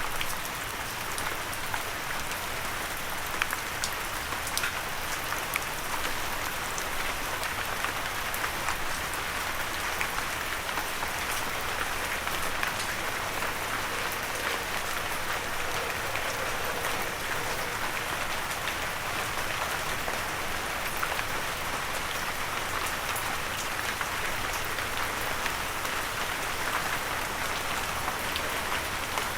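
Steady gentle rain falling on a surface: an even hiss with many scattered individual drops pattering, without thunder.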